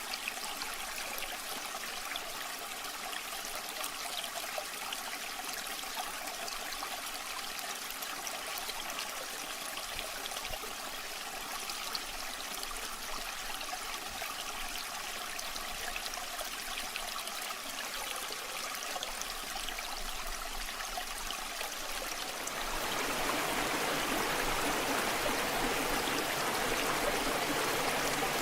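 Waterfall water rushing and splashing in a steady, even wash, growing louder and fuller near the end.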